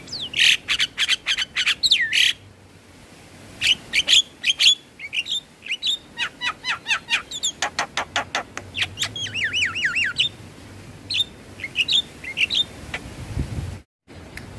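Javan myna (jalak kebo) calling and chattering in rapid runs of sharp, high notes and quick up-and-down sweeps, with a short pause about two and a half seconds in and a brief cut to silence near the end.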